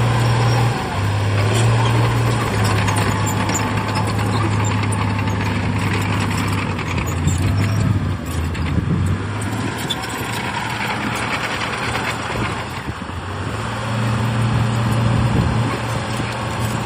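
Heavy diesel earthmoving machinery running under load, its low engine note stepping up and down in pitch. The engine fades for a few seconds past the middle and comes back louder near the end.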